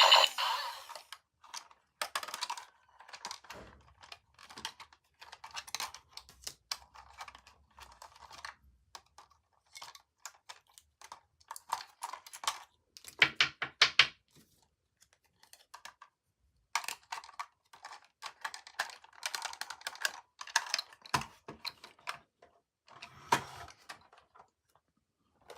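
Toy packaging being handled and opened: irregular clicks, taps and rustling of plastic and cardboard, in clusters with short pauses.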